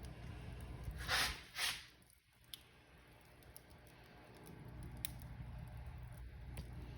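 Wood fire crackling in a fireplace, with two louder hissing bursts about a second in and a few sharp pops later, over a low steady rumble of the flames.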